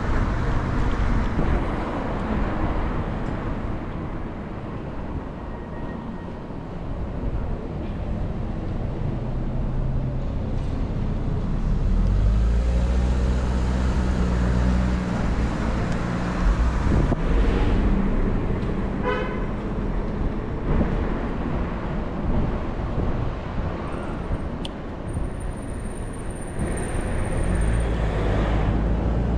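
City bus riding through traffic: the engine drones low under road and traffic noise that rises and falls as it moves. About two-thirds of the way through comes a short horn toot.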